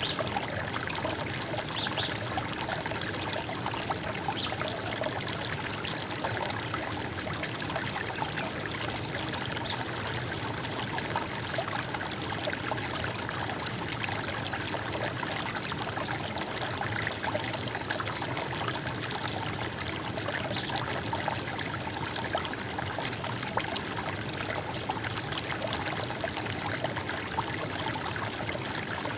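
Running water gurgling steadily, an even unbroken flow.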